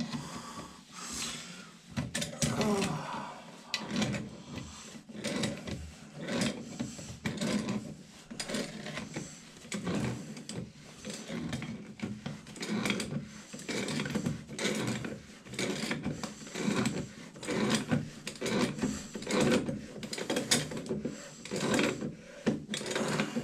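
Hand-tool work on old toilet parts: repeated scraping and clicking strokes, roughly one a second.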